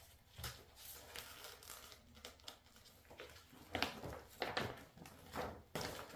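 A large paper poster rustling and crinkling as it is handled and opened out, with a cluster of sharper crinkles in the second half.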